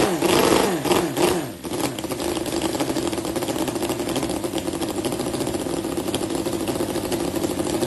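Miniature four-stroke model engine running: revved up and down in the first second and a half, then settling into a steady idle.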